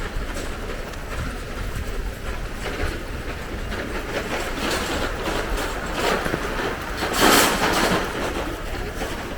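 Steady rain falling, with many sharp drop ticks, and a louder wet hiss that swells and fades about seven seconds in.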